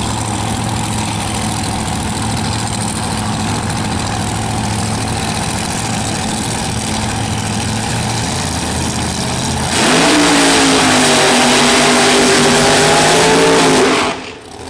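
Drag-racing Pontiac Firebird's engine idling with a steady note, then about ten seconds in revved hard and held at high rpm for about four seconds in a burnout, with loud tyre and exhaust noise. It cuts off abruptly, and the commentator calls the car healthy-sounding.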